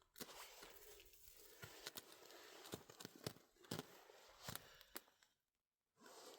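Faint rustling with scattered sharp clicks and crackles that stop about five seconds in, followed by a short burst of noise near the end.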